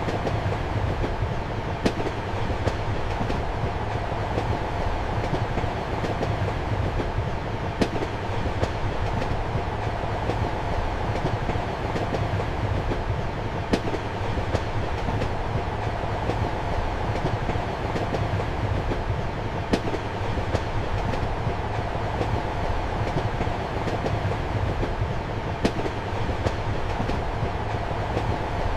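Steady rumble of a moving train heard from inside a compartment, with a sharp click from the wheels about every six seconds.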